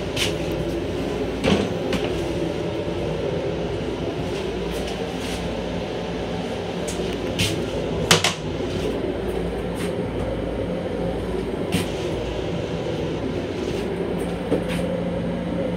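Steady rumble and hum of a Long Island Rail Road M7 electric railcar heard from inside its small restroom, with scattered sharp clicks and knocks.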